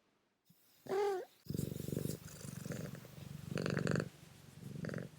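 A cat gives a short meow, then purrs close up in several long stretches with brief breaks between them.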